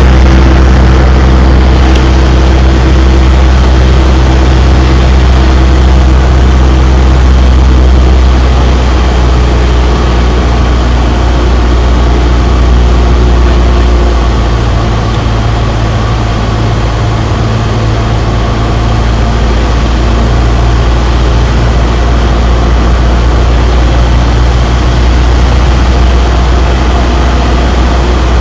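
Cessna 172's piston engine and propeller droning steadily. About halfway through the note changes and the drone gets a little quieter, as with a power reduction on the landing approach.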